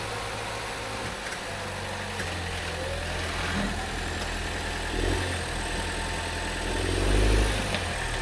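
2016 Chevy Trax's 1.4-litre turbo four-cylinder engine running at low speed as the car is driven up onto ramps. It pulls harder briefly about seven seconds in.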